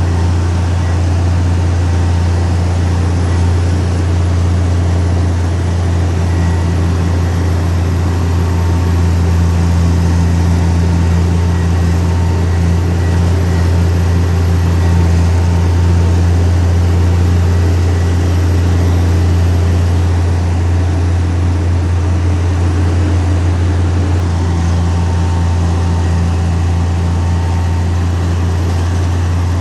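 Heavy diesel engine of earthmoving machinery running steadily, a deep even drone with no breaks.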